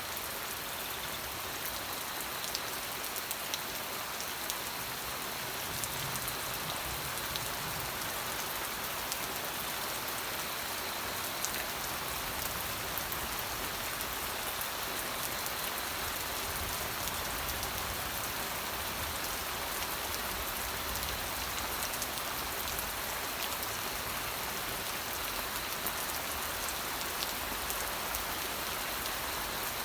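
Steady rain falling: an even hiss with many small sharp taps of single drops scattered through it.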